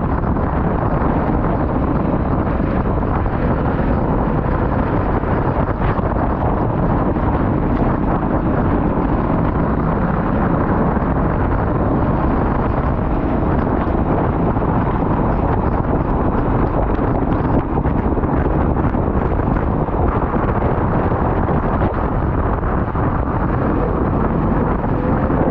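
Racing kart on track, its engine running under heavy wind noise on an onboard microphone, with no clear change or single event.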